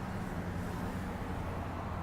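Steady low hum with a background hiss, unchanging throughout.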